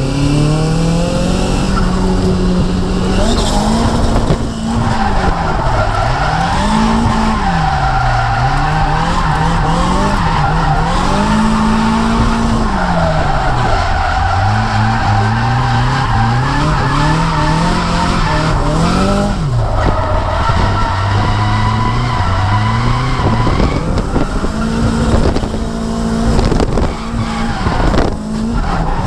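Nissan S14's SR20DET turbocharged four-cylinder engine revving up and down over and over through a drift, with tyres squealing.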